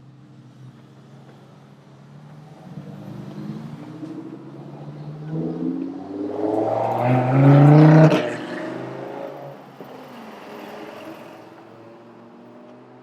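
A motor vehicle's engine accelerating past on a city street. Its pitch rises as it gets louder, peaks about eight seconds in, then drops away and fades.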